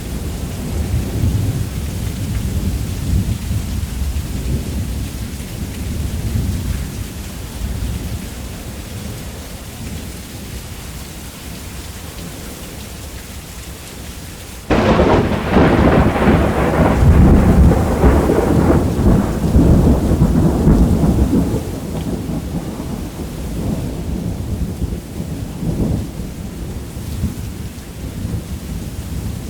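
Thunderstorm with steady heavy rain. A low roll of thunder fades away over the first half, then a sudden close thunderclap about halfway through rumbles on loudly for several seconds before dying down.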